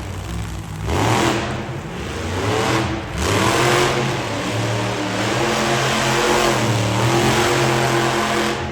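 Monster truck engine revving hard in repeated surges, with blips about one and three seconds in, then held at high revs.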